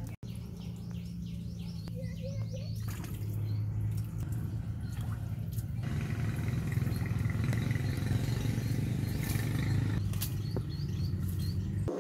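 Birds chirping in quick repeated notes for the first few seconds, over a steady low rumble that grows louder about halfway through.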